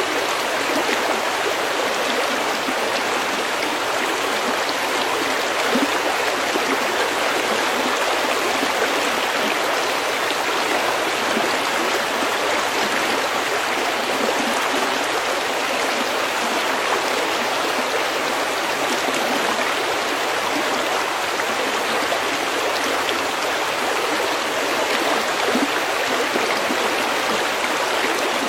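A stream flowing over pebbles: a steady, even rush and babble of water.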